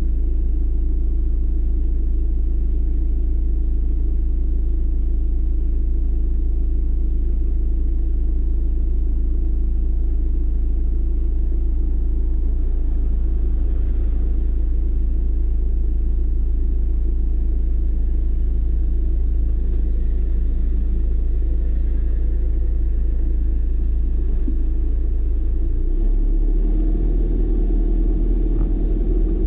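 Car driving, heard from inside: a steady low rumble of engine and road noise, its drone shifting deeper near the end.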